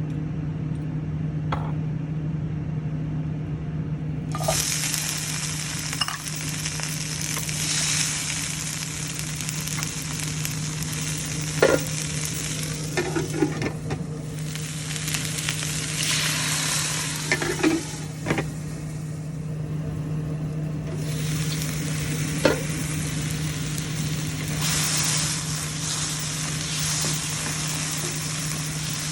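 Food sizzling in a hot pan as it is stir-fried. The sizzle starts about four seconds in and swells and eases as the food is tossed, with a few sharp knocks of the utensil against the pan, over a steady low hum.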